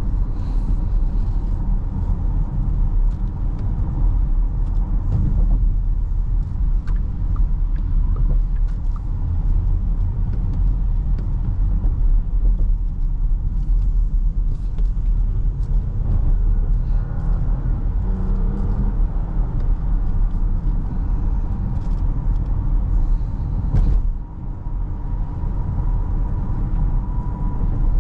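Inside the cabin of a moving 2024 Porsche Cayenne: a steady low rumble of road and engine noise as the car drives, dipping briefly near the end.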